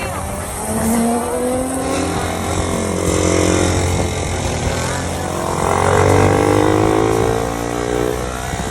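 Motorcycle engine revving several times, its pitch climbing and dropping back, loudest about six seconds in.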